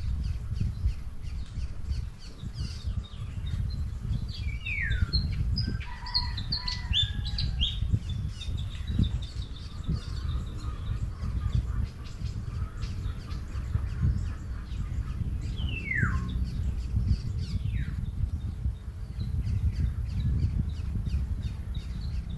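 Small birds chirping and calling over and over, with a few longer calls that slide down in pitch, about five seconds in and again near sixteen seconds. A steady low rumble runs underneath.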